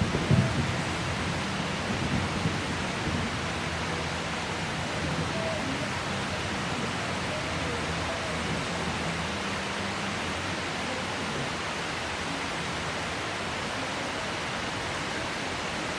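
Heavy rain falling steadily as a constant, even hiss, with the last rumble of a thunderclap dying away in the first couple of seconds.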